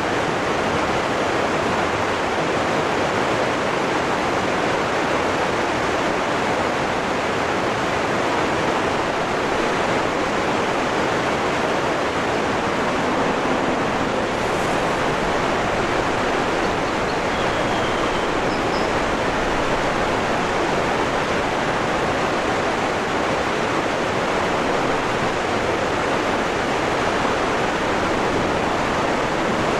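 Waterfall rushing, a steady even roar of falling water with no change in level. A couple of faint, short high chirps come in just past the middle.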